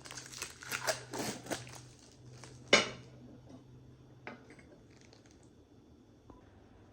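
Household objects being handled: about two seconds of crinkling and rustling, then one loud sharp clack a little under three seconds in and a few light clicks. A low steady hum stops about four seconds in.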